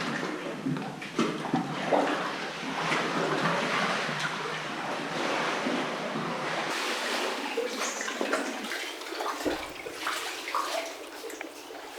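Seawater sloshing and splashing irregularly around a kayak inside a sea cave.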